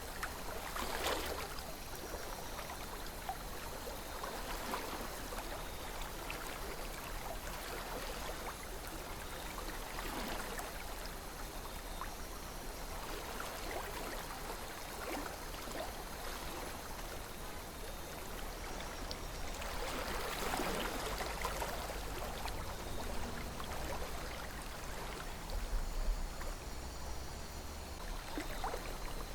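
A calm river flowing, its water babbling and trickling without a break, with a few slightly louder swells.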